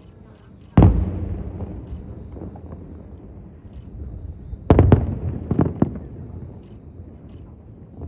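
Aerial firework shells bursting. One loud boom comes about a second in and rumbles away over several seconds. A cluster of bursts follows around five seconds in, then a couple of smaller pops.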